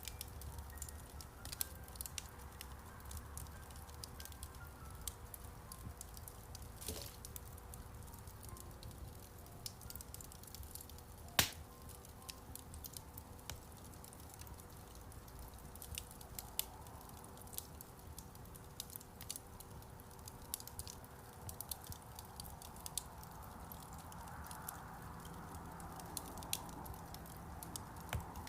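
Wood fire in a fireplace crackling, with frequent small irregular pops and one sharp, louder pop about eleven seconds in.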